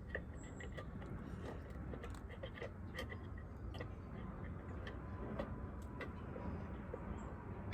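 Light, irregular clicks and taps of hands handling a suet cake and its plastic container, with a sharp click right at the end.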